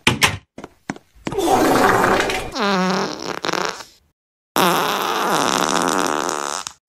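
Cartoon fart sound effects: a few short ones, then a long fart of about three seconds with a wobbling, gliding pitch, and after a brief pause a second long one of about two seconds.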